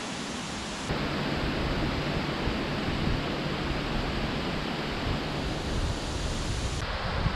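Strong wind rushing and buffeting the microphone as a steady noise, growing louder and more rumbling about a second in.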